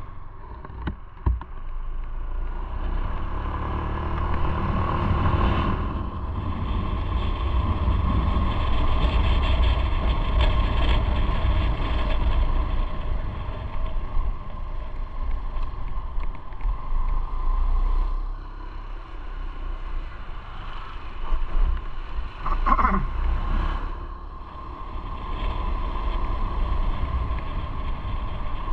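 Motorcycle running on the road, its engine rumble mixed with steady wind noise. Near the end a brief sound sweeps quickly down in pitch.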